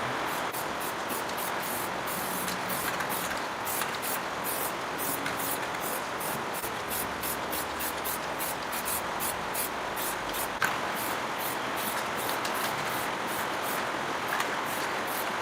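Steady hiss of a high-pressure spray running without a break, with a faint fast ticking in the highest pitches and one sharp click about ten seconds in.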